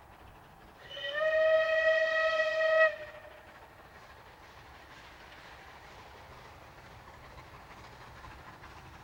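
Steam whistle of Southern Railway Merchant Navy class locomotive 35006 Peninsular & Oriental S. N. Co., one steady single-note blast of about two seconds starting about a second in, followed by the faint sound of the train running.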